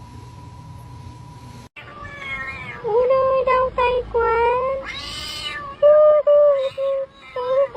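A cat meowing in a long string of loud, wavering meows, starting about two seconds in after a faint steady hum and tone cut off.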